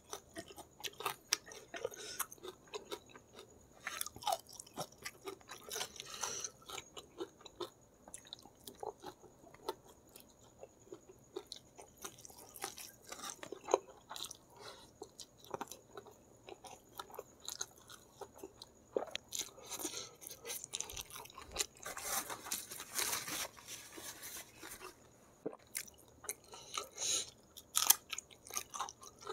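Close-miked chewing and crunching while eating spicy Samyang instant noodles by hand, with many small wet mouth clicks and smacks. About two-thirds of the way through comes a denser two-second stretch of mouth noise.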